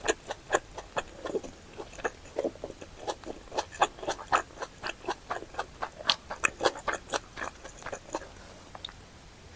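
Close-miked chewing of spicy Korean chicken and intestine stew (gopdoritang): a steady run of short, sharp mouth clicks, about three or four a second, thinning out near the end.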